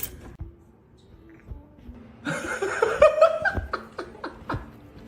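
A person laughing, a run of short bursts about halfway through.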